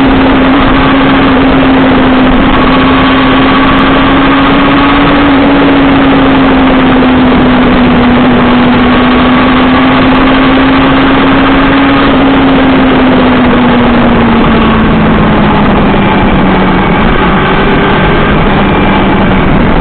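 Honda CBR400RR's inline-four engine running at a steady cruising speed under heavy wind rush on the microphone. The engine note slowly falls in pitch in the last several seconds as the bike eases off.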